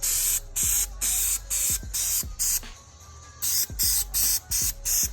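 Spray can of clear coat hissing in a quick run of short bursts, about two a second, with a short pause midway, as it lays a coat on sanded fog-light lenses.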